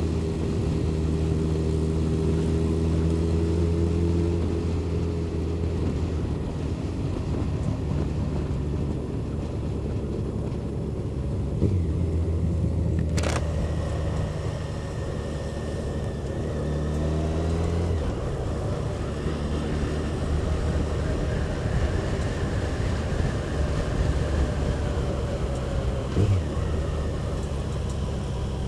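Motorcycle engine running on the road over wind rush. Its note is steady at first, then changes pitch a couple of times as the revs shift, with one sharp click about halfway through.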